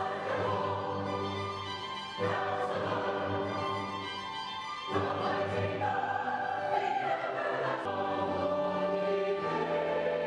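Church choir singing held chords with accompaniment, the harmony moving to a new chord about every two to three seconds.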